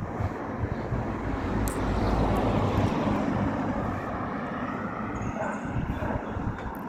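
A vehicle passing by: a rumbling noise that swells to its loudest two to three seconds in and then fades.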